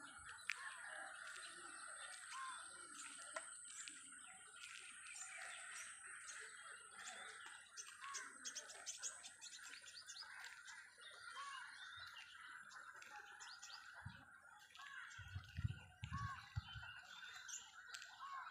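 Birds chirping and calling: many short chirps and small rising-falling notes, over a steady high hiss. A few low thumps come late on.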